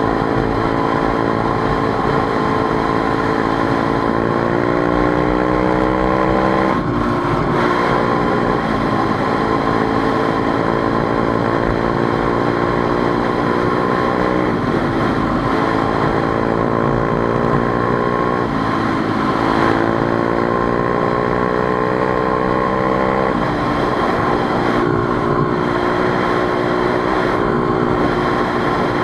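Motorcycle engine running under way, its revs climbing slowly and dropping back sharply several times.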